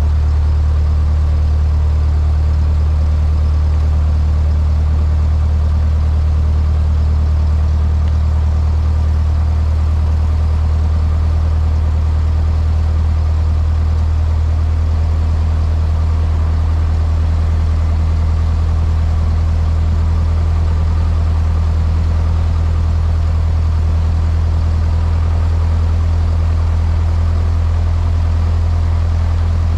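Cessna 152's four-cylinder Lycoming engine running steadily with a deep, even drone, its tone shifting slightly about 15 seconds in.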